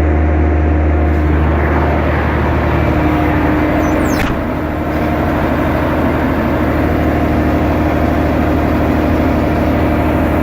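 Mack E7 Econodyne diesel engine of a 1994 Mack rolloff truck running steadily while warming up from a cold start, its level dipping slightly for a moment about four seconds in.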